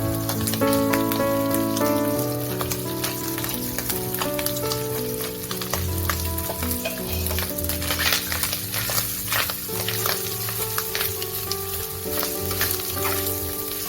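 Food sizzling in a frying pan as it is stirred, with a steady hiss and many short clicks and scrapes of the spatula against the pan.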